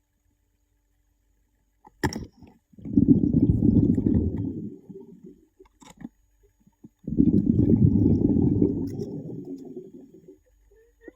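Bubbles rumbling and gurgling underwater in two long low bursts, each about two and a half seconds, after a short sharp click.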